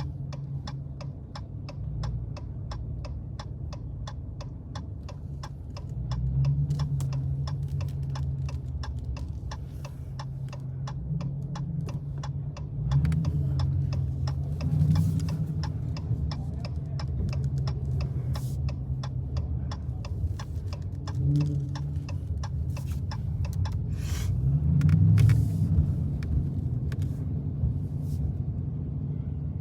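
Dodge Challenger's V8 engine running at cruise, swelling louder several times as the throttle is opened, with a turn signal ticking steadily through about the first half.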